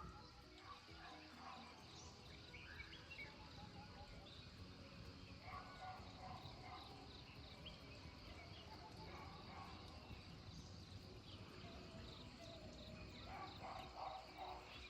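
Faint outdoor ambience with scattered short bird chirps and calls, and a quiet repeating high note in the background.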